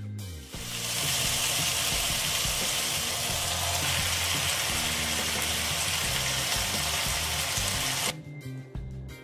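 Blanched spinach and green chillies sizzling in hot oil in a pan, a loud even hiss that starts about half a second in and cuts off sharply near the end, over background music.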